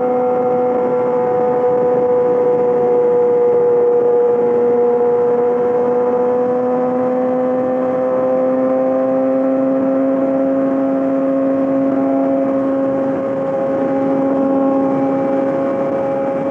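Yamaha R6 inline-four engine through a full M4 exhaust, running at a steady speed under way, its pitch holding level and then slowly rising from about four seconds in.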